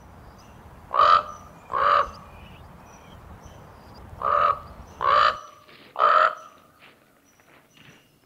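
A bird calling with five loud, short cawing calls: two close together about a second in, then three more in the middle.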